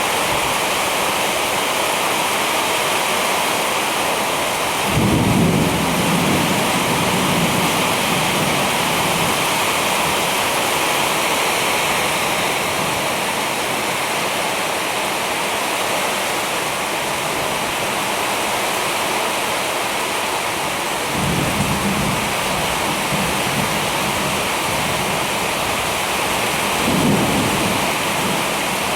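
Heavy rain pouring steadily in a thunderstorm, with low thunder rumbling three times: a few seconds in, again about two-thirds of the way through, and once more near the end.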